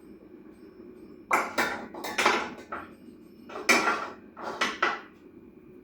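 Dishes and utensils clattering: a run of knocks and clinks about a second in, then another near four seconds.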